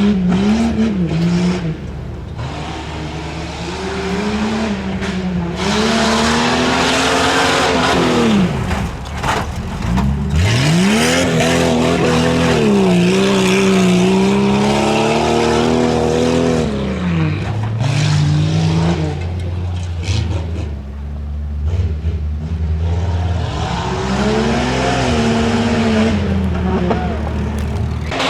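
Off-road tuff truck's engine revving hard and easing off again and again, its pitch sweeping up and down. About a third of the way through it drops away almost completely, then climbs sharply back up.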